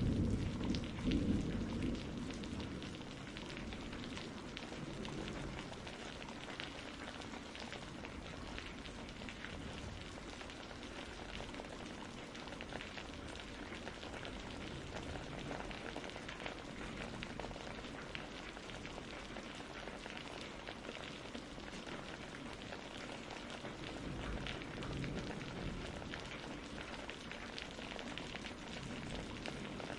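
Steady rain falling, with a roll of thunder dying away in the first couple of seconds and a softer low rumble swelling briefly about 25 seconds in.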